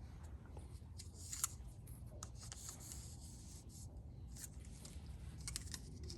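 Faint rubbing and rustling with a few small clicks: yellow Teflon thread-seal tape being handled and wrapped onto the threads of a pipe nipple.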